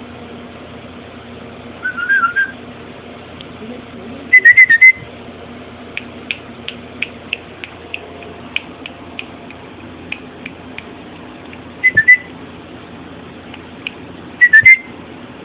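Small puppy whining and yelping: four clusters of short, high-pitched squeals, the loudest about four seconds in, with faint light ticks between the middle two.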